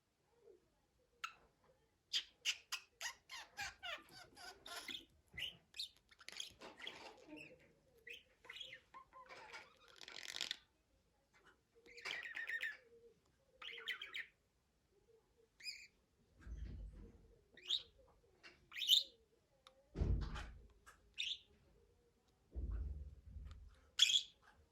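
Budgerigar chirping and warbling in quick, short, high calls and trills, with a few dull low thumps in the second half.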